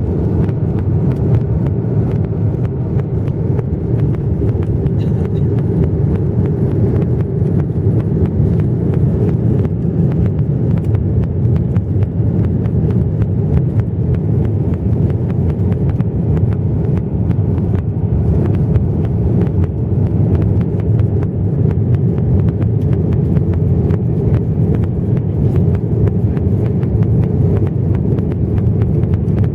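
Steady low rumble of an Airbus A330-300 in flight, jet engine and airflow noise heard from inside the passenger cabin.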